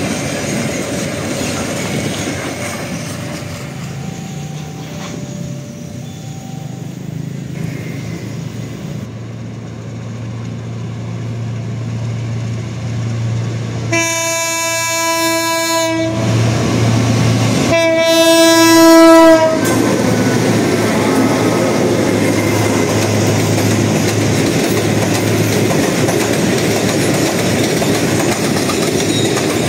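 An Indonesian diesel locomotive approaching with its engine running, sounding two long horn blasts, the second the loudest, about halfway through. The train then rolls past, wheels clattering over the rail joints.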